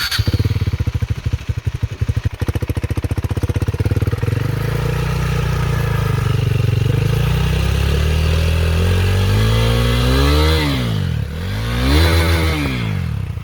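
KTM Duke 390's single-cylinder engine idling just after starting, breathing through a Scorpion slip-on exhaust with its dB killer fitted, which keeps it not that loud. Near the end it is revved up twice, each time falling back to idle.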